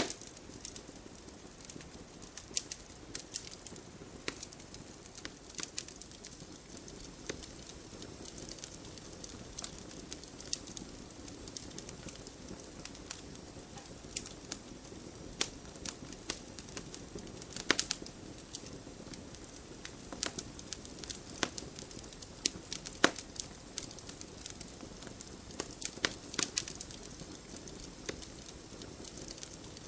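Wood fire burning in a fireplace: a steady low rush of flames with frequent irregular crackles and a few louder pops of the burning logs.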